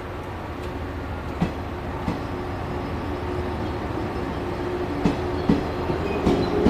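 Yellow electric commuter train pulling slowly into the platform, its running noise growing louder as it comes alongside. The wheels clack over rail joints about five times, mostly in the second half.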